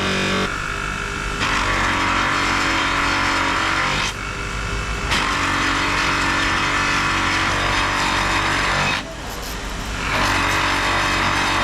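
Metalworking machinery running: a steady motor hum overlaid by a harsher grinding noise that comes in three long stretches, breaking off briefly about four seconds and nine seconds in.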